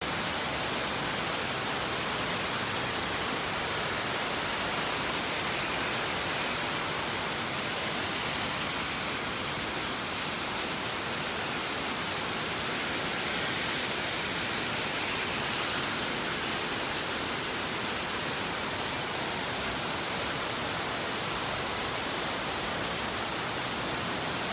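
Torrential rain pouring down, a steady dense hiss at an even level throughout.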